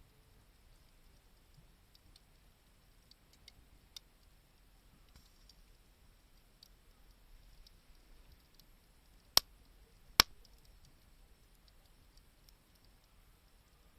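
Small wood fire crackling faintly, with scattered light ticks and two sharp pops less than a second apart near the middle.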